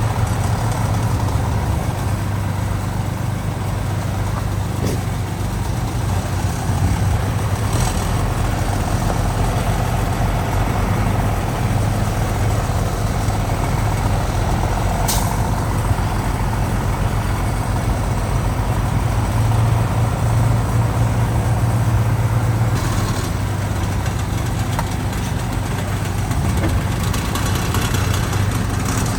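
Heavy diesel engines of construction machinery, a bulldozer and dump trucks, running steadily, with one short sharp click about halfway through.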